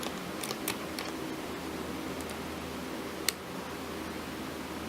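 A few sparse mechanical clicks from a 1930s–40s Swedish hand-cranked mechanical calculator being worked, with one sharper click a little past three seconds in, over a steady low hum.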